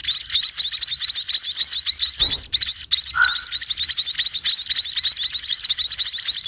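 Young songbird chicks giving continuous rapid, high-pitched begging chirps, many a second, as they are fed by a parent, with two brief breaks in the middle.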